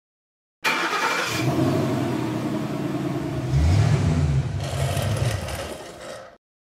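A car engine starting and revving. It cuts in abruptly about half a second in, swells with a louder rev in the middle, then fades and cuts off near the end.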